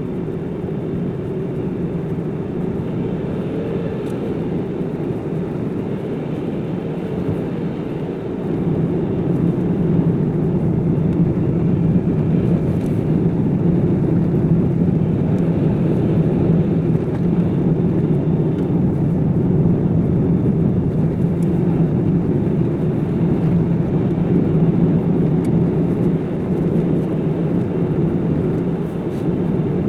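Car driving along: a steady hum of engine and tyre noise, growing louder about eight seconds in.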